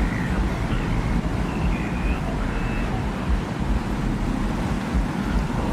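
Steady desert wind rumbling low, in gusty swells, with a few faint short high whistling tones that come and go.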